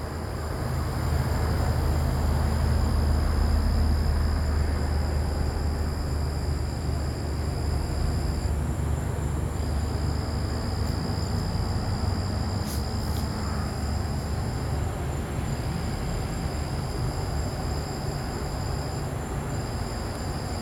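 Helicopter circling overhead: a low rotor rumble that swells over the first few seconds, then slowly fades. A steady high trill runs in the background, broken by a few short gaps.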